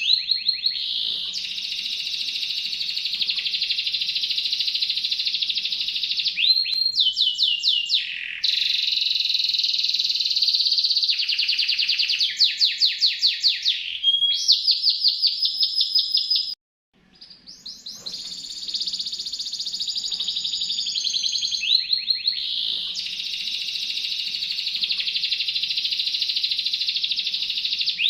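Songbird singing a long, nearly unbroken song of high, rapid trills and fast repeated-note runs, with one brief pause about two-thirds of the way through.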